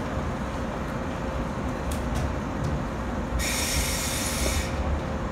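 A standing JR East 485-series electric train idling with a steady hum and low rumble. A bit over three seconds in comes a hiss of released compressed air lasting just over a second, typical of the train's air brakes.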